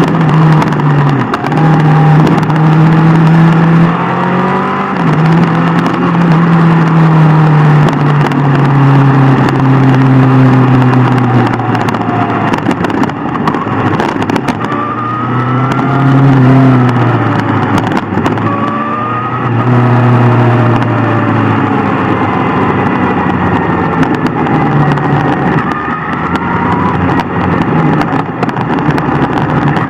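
Sport motorcycle engines running at road speed, with a constant rush of wind and road noise. The engine note holds steady, then rises and falls with the throttle and gear changes several times.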